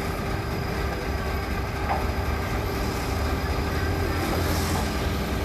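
Steady low mechanical rumble of running machinery, with faint steady tones above it.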